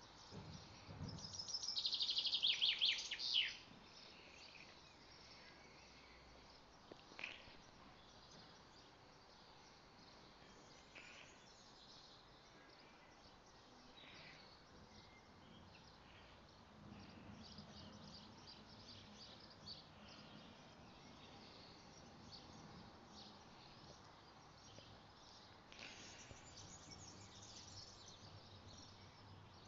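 Outdoor ambience with birdsong: about a second in, a bird sings a loud song of rapid, falling high notes lasting a couple of seconds, followed by scattered faint chirps over a low steady background hiss.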